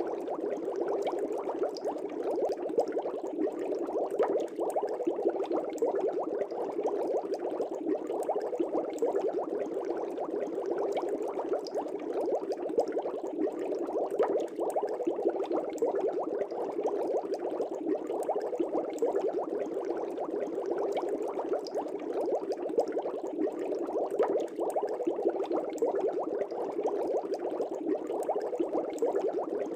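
Air bubbles streaming up through the water of a fish tank, a steady dense bubbling and gurgling with small pops.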